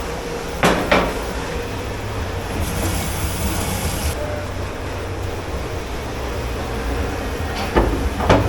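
Steady low rumble of commercial kitchen machinery, with a couple of sharp clanks of dishes or pans near the start and two more near the end, and a short burst of hiss a few seconds in.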